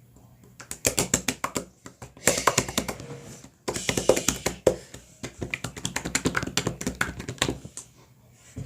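Rapid, irregular clicking and tapping in quick flurries, with short breaks about two seconds and three and a half seconds in.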